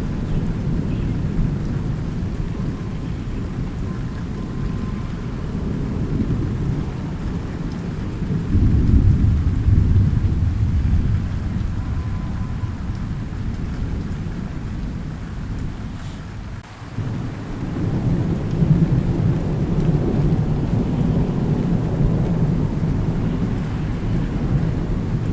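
Thunderstorm with rain: low rolling thunder rumbles continuously over steady rain. The thunder swells loudest about a third of the way in, drops away suddenly about two-thirds through, then builds again.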